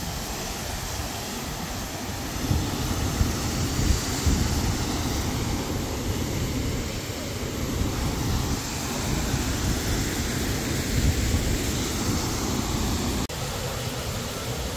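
Steady rushing of a waterfall, with gusty wind buffeting the microphone. The sound drops abruptly and changes near the end.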